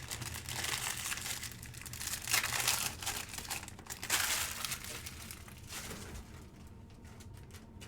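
Plastic wrapping of trading-card packs crinkling and tearing as they are ripped open by hand, in irregular bursts that die down near the end.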